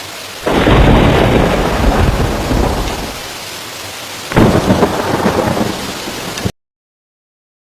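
Strong dust-storm wind buffeting the microphone: a loud rushing, rumbling noise that surges suddenly about half a second in and again about four seconds in, then cuts off abruptly into silence.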